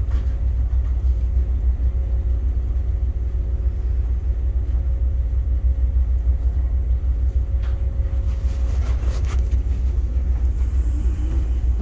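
A towboat's diesel engines running with a steady low rumble, a faint steady hum over it that stops about eight and a half seconds in, and a few light knocks around eight to nine seconds.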